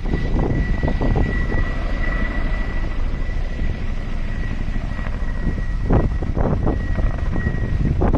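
Firefighting helicopter flying, a steady low rumble with a steady high whine over it.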